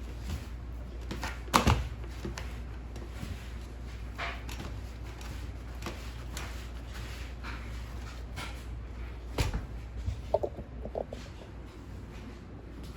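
Scattered knocks and clatter of things being handled and set down during floor cleaning, with a sharp knock about a second and a half in, another about nine seconds in, and a few short squeaks soon after, over a low steady hum.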